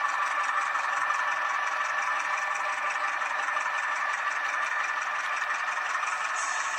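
H0-scale model of a Renfe Alco 313 diesel locomotive running on the layout track: the steady hum and whirr of its small electric motor and gearing, with the rattle of wheels on rails.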